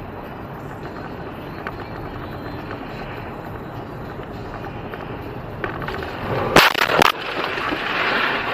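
Steady road and engine noise of a moving car, broken about two-thirds of the way through by two loud bangs in quick succession: a car collision.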